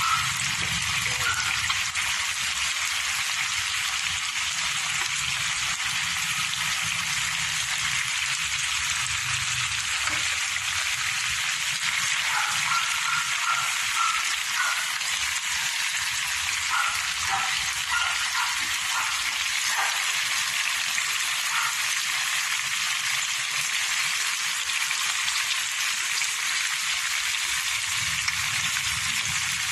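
Chicken gizzards and pork sizzling steadily in a frying pan as a dry adobo cooks down.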